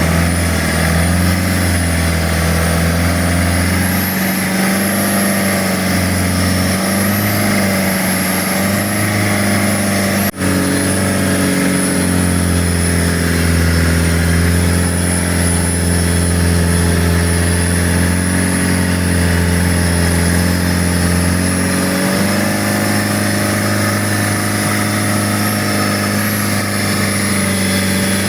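A boat's engine running steadily under way, its pitch wavering slightly, with a very brief break about ten seconds in.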